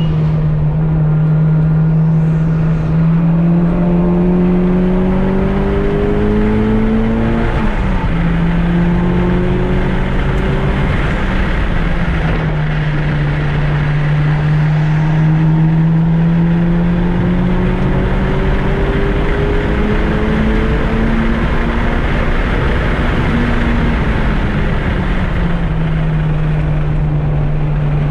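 Mitsubishi Lancer Evolution IX RS's freshly rebuilt turbocharged 2.0-litre four-cylinder engine running hard on track. Its note climbs slowly in pitch and drops back sharply several times, about 8, 12, 20 and 25 seconds in.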